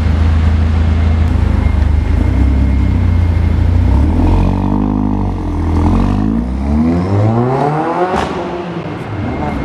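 Mercedes A45 AMG's turbocharged 2.0-litre four-cylinder engine breathing through an aftermarket iPE exhaust: it runs at a low steady note, is blipped up and back down about halfway through, then revs up with a rising pitch and gives a sharp crack near the end.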